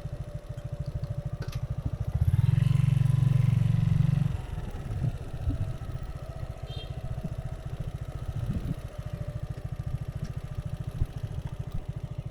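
Motorcycle engine idling with a steady, even pulse. It runs louder for about two seconds, starting about two seconds in.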